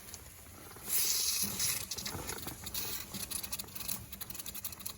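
Beef hot dogs and chili sizzling in a ceramic-coated skillet on a camp stove. A loud crackling sizzle flares up about a second in, then keeps crackling steadily.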